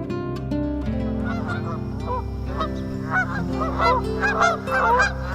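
Many short bird calls overlapping in a chorus, growing denser after about two seconds, over background music with sustained notes.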